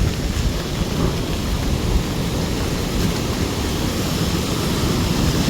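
Steady noise of heavy rain and strong wind, with a low rumble throughout and no distinct thunderclap.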